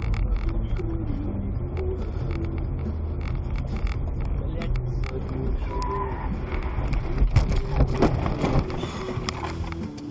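A car's engine and road noise running steadily, with a cluster of sharp knocks and clatter about seven to eight seconds in.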